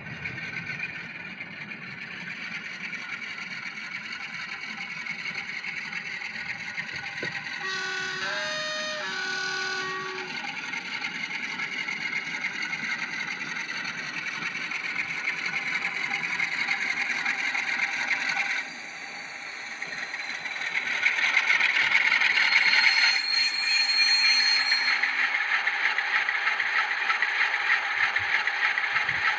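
N gauge Class 47 diesel locomotive's DCC sound decoder playing the engine sound through the model's small speaker as it runs, with a brief two-tone horn about eight seconds in. After a short dip the engine sound grows louder from about two-thirds of the way through, as the model works up to pull its train.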